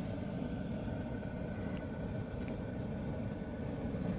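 A steady low rumble, even in loudness, with a couple of faint ticks.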